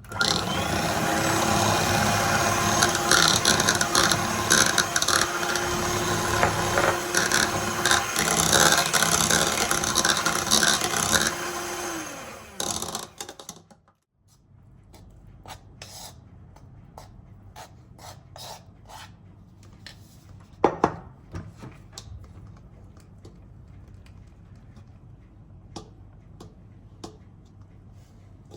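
An electric kitchen appliance motor runs loudly and steadily for about twelve seconds, then winds down in pitch and stops. Afterwards come light scattered clicks and knocks.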